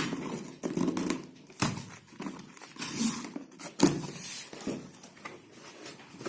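Cardboard fan box and its packaging being handled and opened: irregular rustling, scraping and a few knocks.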